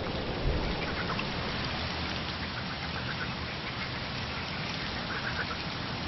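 Wetland ambience: a steady water noise like rain or splashing, with a few faint bird calls, one about a second in and a short run around five seconds in.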